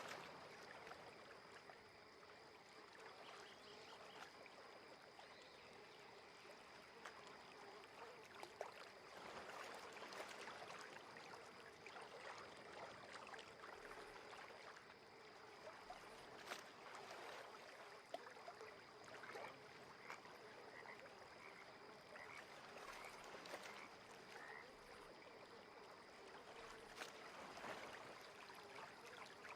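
Faint frogs croaking at a lake, over a soft steady wash of water, with a thin steady high tone throughout and a run of short repeated calls in the latter half.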